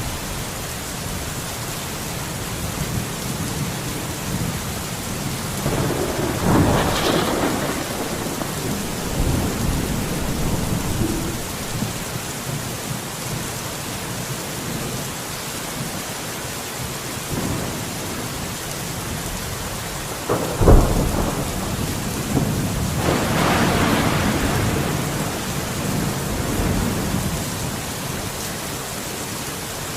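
Steady heavy rain hissing, with thunder rumbling twice: a rolling swell about six seconds in, then a sharp crack about twenty seconds in that rolls on for several seconds.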